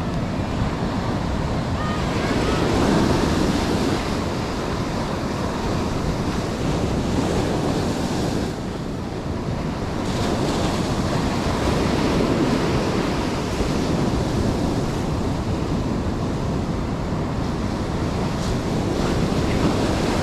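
Ocean surf breaking and washing ashore, swelling and easing every few seconds, with wind buffeting the microphone.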